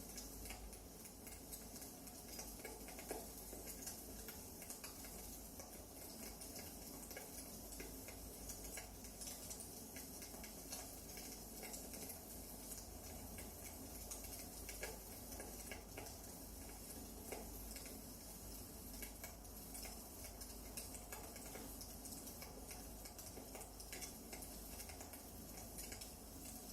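Wood fire burning in a fireplace, crackling faintly with many small, irregular pops over a steady soft hiss.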